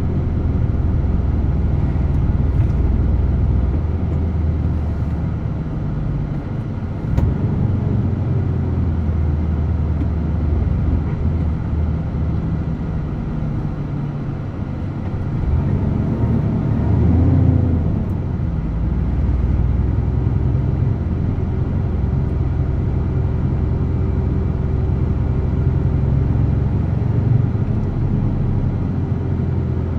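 DAF truck's diesel engine running steadily under way, with a low drone and road noise. There is a sharp click about a quarter of the way in, and the engine note swells and rises in pitch briefly a little past halfway, then settles again.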